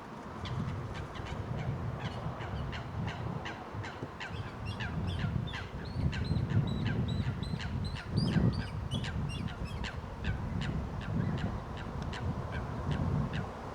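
A flock of park birds calling in many quick, short notes, several a second and busiest in the middle, over a low rumble.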